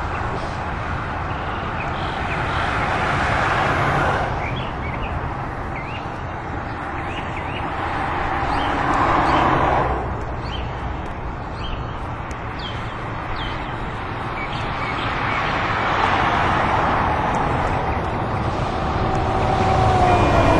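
Road traffic passing by in several swells, each rising and then falling away, with a falling tone near the end.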